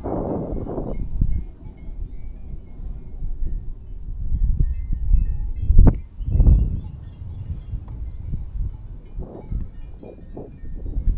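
Wind gusting on the microphone in low rumbles and surges, the biggest at the start and about six seconds in, over a steady high chirring of insects.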